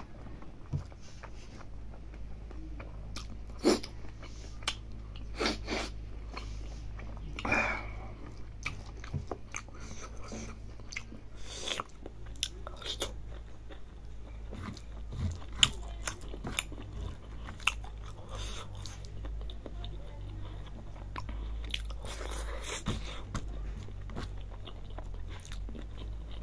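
Close-miked chewing and lip-smacking of a man eating rice with mithun skin curry by hand, with wet smacks and scattered short crunches, over a steady low hum.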